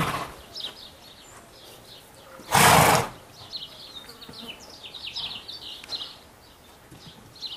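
Small birds chirping repeatedly, with one loud half-second rush of noise about two and a half seconds in.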